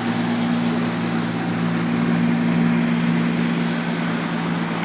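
An engine running steadily at a constant pitch, over a haze of street traffic noise.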